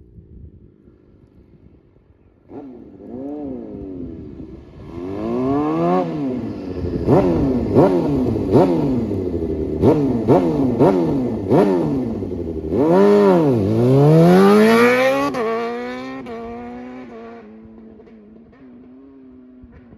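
Suzuki GSX-R750's inline-four with a slip-on exhaust, accelerating hard. The revs climb and drop sharply again and again as it is shifted up through the gears. A few seconds in the engine note rises out of quiet, and near the end it falls away and fades.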